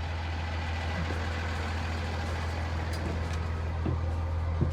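Steady low hum of an idling truck engine, with a few faint knocks.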